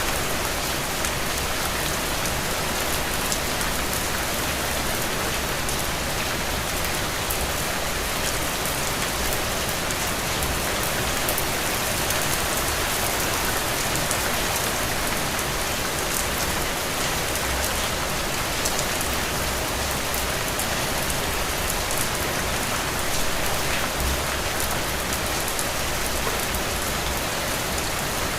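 Steady rain falling, an even hiss with fine patters of drops.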